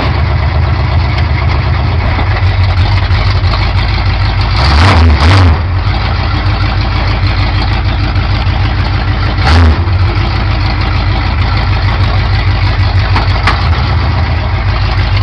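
Built AMC 360 V8 in a 1979 AMC Spirit drag car, idling with a steady low lope. It is blipped twice about five seconds in, and once more near ten seconds.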